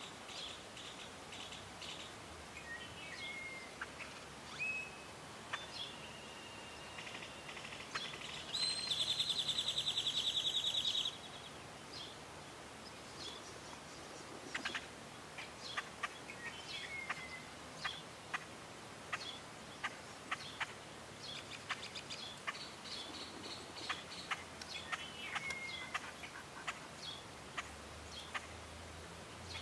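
Outdoor ambience of small birds chirping and calling, with short falling whistled notes now and then. About nine seconds in, a loud buzzing rattle lasts about two and a half seconds.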